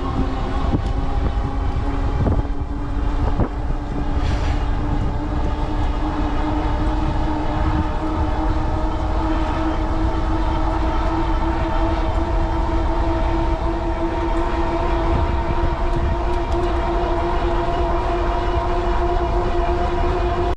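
Heavy wind rumbling on the microphone of a moving e-bike, over a steady whine from the Cyrusher Kommoda's 750 W Bafang rear hub motor whose pitch creeps slowly upward as the bike gains speed.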